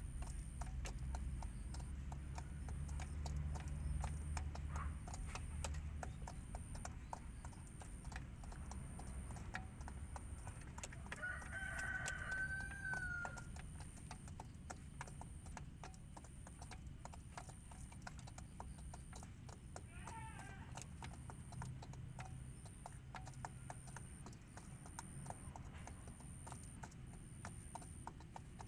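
A bird calls twice against a low hum and steady faint ticking: a drawn-out pitched call a little under halfway through, and a shorter sweeping call about two-thirds of the way in.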